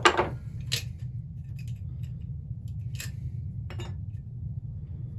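Metal tools and small chainsaw parts clinking and knocking on a workbench during a teardown: a few sharp clinks, the first the loudest, over a steady low hum.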